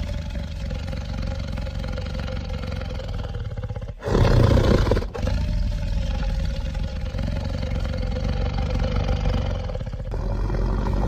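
Designed growl of a giant monitor lizard creature, layered from reptile and dinosaur sounds: a long, low rumbling growl, a louder roar about four seconds in, a brief break, then another long growl.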